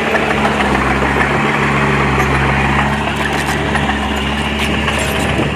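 Diesel engine of heavy earthmoving equipment running steadily at a constant speed, with a few faint light clicks or clanks in the second half.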